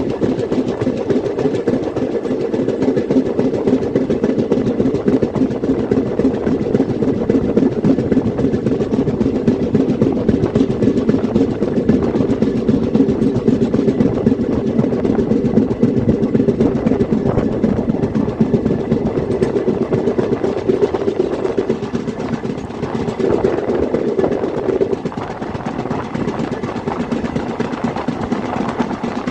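Train running along the track: a steady rumble with rail noise that eases off slightly near the end.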